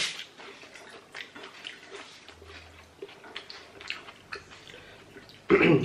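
Quiet eating sounds: chewing and small mouth clicks as a piece of fried egg-and-vegetable pancake is tasted, with scattered faint ticks. A brief, louder vocal sound comes near the end.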